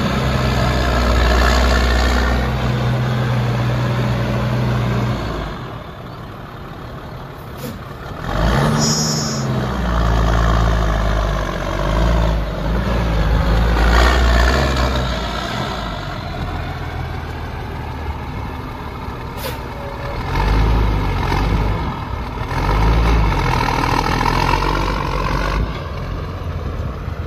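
A Caterpillar C-9 diesel in a Ford F650 truck running, idling and then revved up and back down several times. A brief high hiss comes about nine seconds in.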